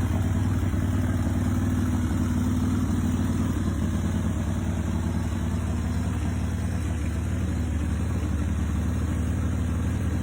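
A 2005 Titan Sidewinder chopper's S&S 124.9 cubic inch V-twin, built with a 640 cam, idling steadily with an even low pulse.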